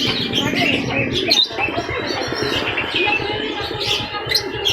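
Lovebirds chirping: a rapid, continuous run of short, high chirps.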